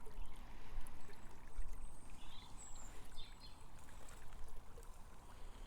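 Steady outdoor rushing noise, like running water or wind, with a few faint high chirps around the middle.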